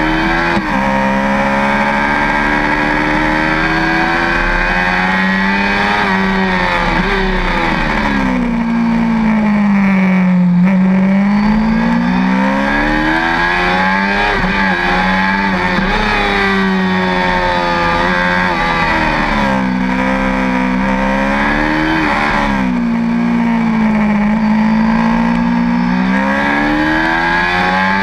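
Yamaha R6's 600 cc inline-four engine heard from on board at racing speed. Its note climbs hard through the gears and drops away several times as the rider slows for corners, the deepest dips about a third of the way in and again near 20 seconds, with a steady rush of wind over it.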